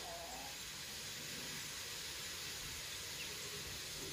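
Wild amanita mushrooms (hed ra-ngok) sizzling in a wok over a low charcoal fire: a steady hiss, with no spatula strikes.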